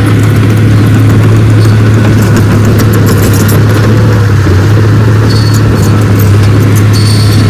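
Diesel engine of a heavy earthmoving machine running steadily, a strong low hum with light clicking over it.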